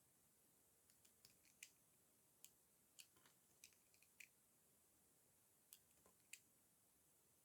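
Dry soap being crushed: faint, sharp, crunchy crackles in irregular clusters, most of them in the first half and a few more a little past the middle.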